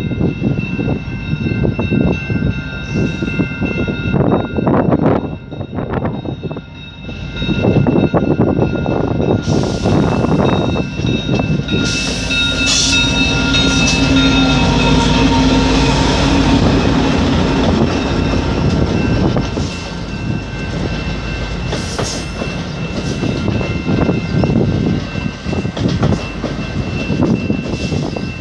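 Commuter train running on the rails: a continuous rumble with steady high-pitched tones and scattered clanks, loudest in the middle of the passage.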